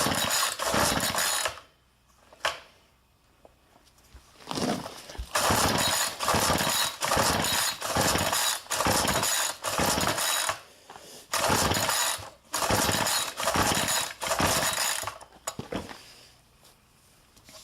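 Recoil starter of a small gas engine being pulled over and over in bursts of rapid pulls, with short pauses between; the cold engine turns over but does not catch.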